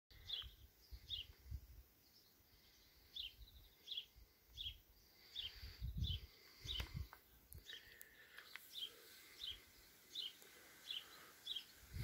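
A bird calling over and over, one short high chirp about every second or less, with scattered low rumbles of wind on the microphone.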